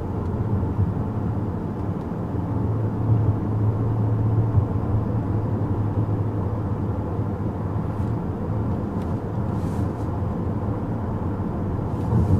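Steady low hum of a 2014 Chevrolet Impala's 2.5-liter four-cylinder engine and road noise, heard from inside the cabin while driving.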